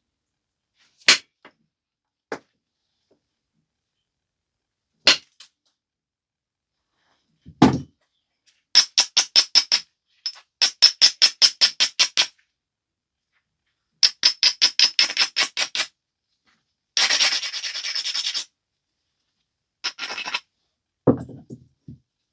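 Flintknapping on a stone biface: a few sharp clicks of percussion strikes, then runs of quick, rhythmic scraping strokes, about eight a second, as an abrader rubs along the biface's edge. A duller strike comes near the end.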